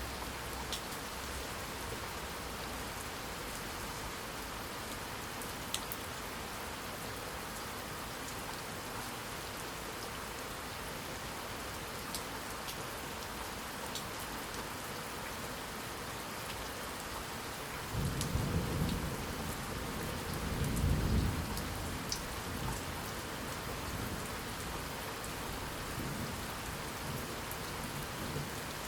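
Steady rain falling, with scattered drops ticking through the hiss. Past the middle a roll of thunder comes in suddenly, swells a second time and fades away under the rain.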